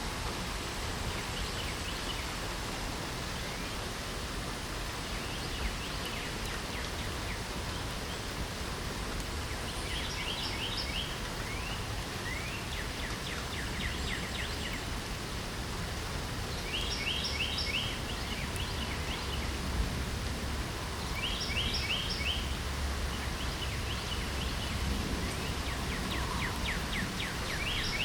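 Steady spring rain as an even hiss, with a songbird singing short, rapid trilling phrases over it every few seconds from about a third of the way in.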